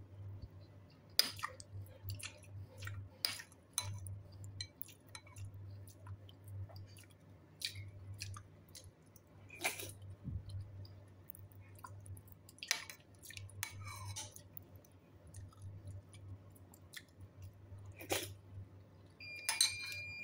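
A person chewing soft food, tofu soup with rice, with scattered small wet mouth clicks. Near the end a spoon rings briefly against the bowl. A steady low hum runs underneath.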